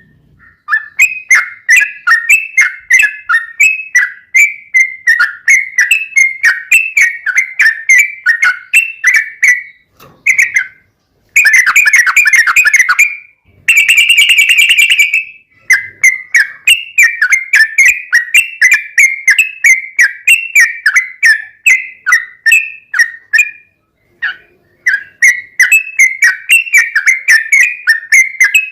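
Sooty-headed bulbul (trucuk) singing a rapid-fire song of short whistled notes, several a second, broken by two brief dense, continuous stretches near the middle and short pauses.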